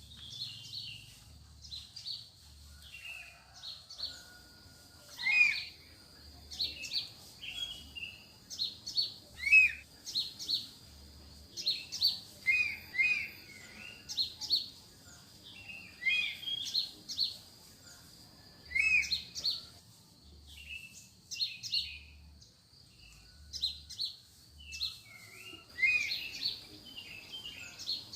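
Wild forest birds calling, a steady series of short, sharp chirps and quick slurred notes, several different call types overlapping, over a steady high-pitched tone.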